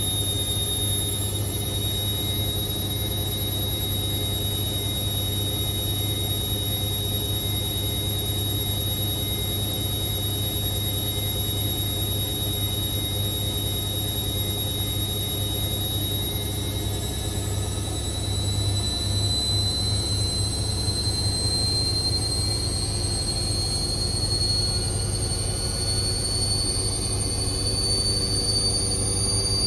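Indesit IWC6165 washing machine spinning, its motor giving a steady high whine over a low hum. From just over halfway the whine climbs in pitch and gets louder as the drum speeds up.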